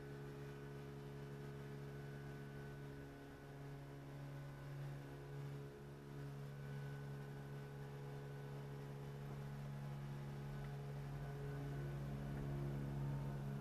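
Steady low hum of a car idling, heard from inside the stationary car's cabin, growing a little louder near the end.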